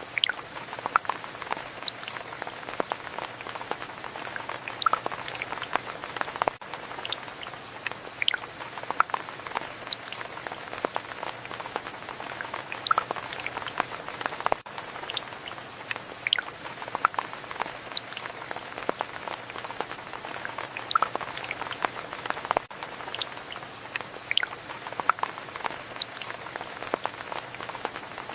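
Steady rain with many separate drops striking a surface close by.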